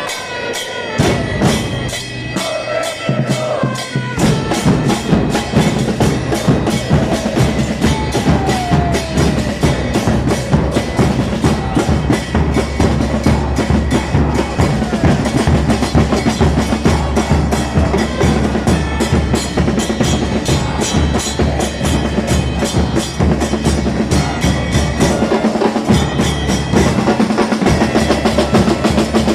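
Football supporters' drums and percussion beating a fast, steady rhythm with heavy bass drum, the fans singing along in unison.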